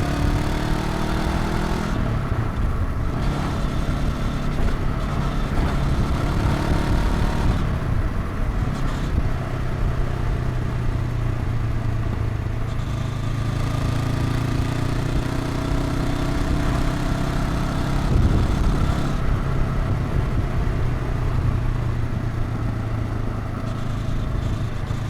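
Honda NX500's 471 cc parallel-twin engine and exhaust under way on the road, its pitch rising as the bike accelerates near the start and again in the middle, with steadier cruising in between. Wind rushes past the helmet.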